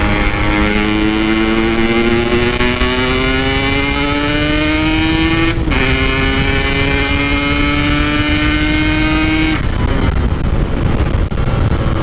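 Yamaha RX-King 135cc single-cylinder two-stroke motorcycle with an aftermarket exhaust, pulling steadily up in pitch under throttle. About halfway through the pitch drops sharply at a gear change and it pulls up again, then the throttle rolls off near the end. Wind noise runs underneath.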